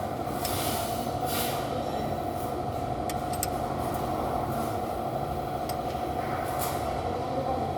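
Steady mechanical running noise with a constant hum, and a few light clicks over it.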